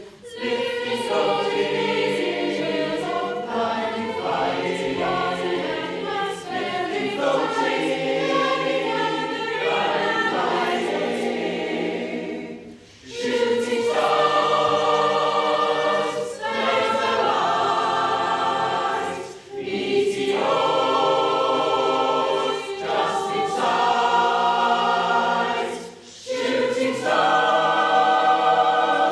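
A choir singing held chords in harmony, with short breaks between phrases about every six or seven seconds.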